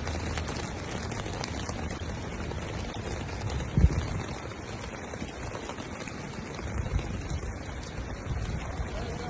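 Heavy rain falling steadily in a flash flood, an even hiss of water. A sharp low thump about four seconds in is the loudest moment, with smaller low thumps near seven seconds.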